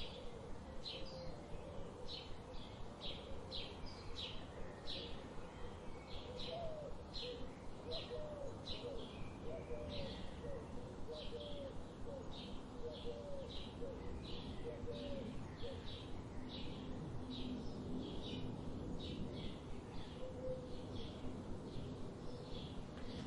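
Wild birds calling: a short high chirp repeats about twice a second throughout. A lower, hooked call repeats for several seconds in the first half.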